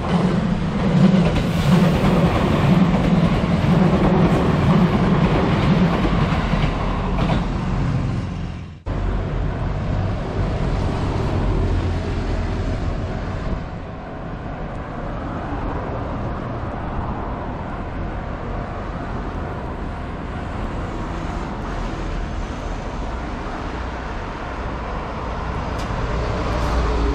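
JR West 227 series electric train running past on the rails, loud and steady, until it cuts off sharply about nine seconds in. After that comes a quieter, steady rush of road traffic beside the line, growing louder near the end.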